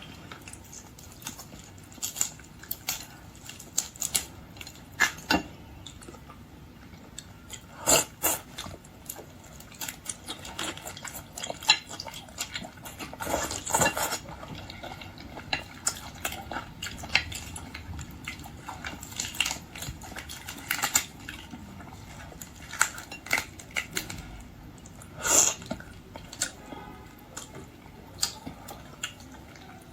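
Close-up eating sounds of a shellfish meal: irregular clicks and clinks of shrimp shells and utensils against a dish, with chewing in between.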